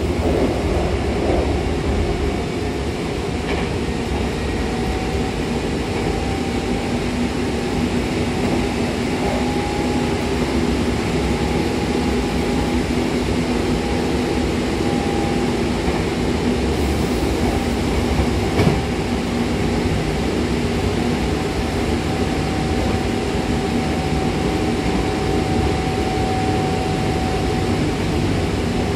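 Hankyu Takarazuka Line commuter train running between stations, heard from inside the car by the doors: a steady rumble of wheels on rails with a faint humming tone over it. A single knock comes about two-thirds of the way through.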